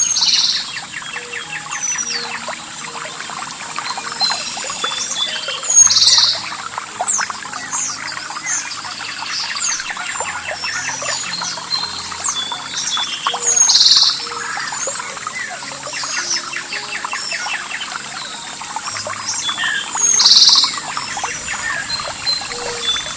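Several songbirds chirping and singing together, with one louder call coming back about every seven seconds, over a steady background of running water.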